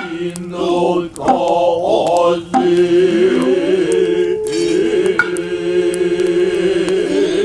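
Noh chanting (utai) in the Kanze style: a low voice holding long, drawn-out notes that slide slowly in pitch, with a few sharp clicks over it.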